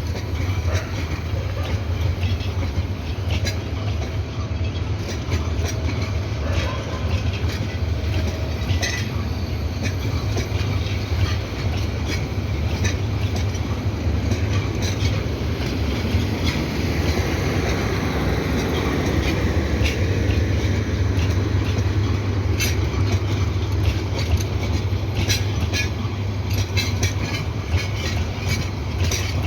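Parabat Express passenger train rolling along the track: a steady low rumble with scattered clicks of wheels over rail joints, swelling in the middle.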